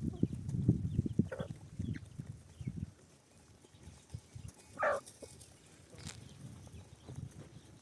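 Low rumbling noise for the first three seconds, then a single short livestock call, a bleat, about five seconds in.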